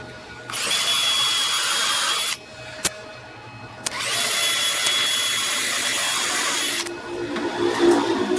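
Small electric power tool, drill-like, running in two bursts of about two and three seconds, each a steady high whine over a hiss that starts and stops abruptly.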